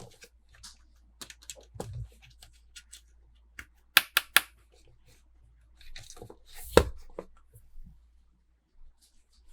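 Hands handling and tearing open toy packaging: scattered rustles, taps and clicks. Three sharp clicks come in quick succession about four seconds in, and a louder rustle follows near seven seconds.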